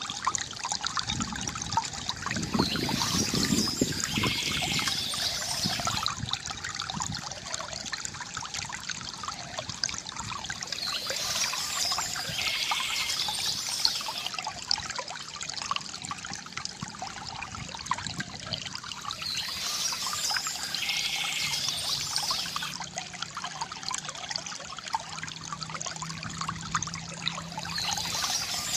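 Water trickling and pouring from a bamboo fountain spout into a basin, steady throughout. A brighter, hissier splash recurs about every eight seconds, four times in all.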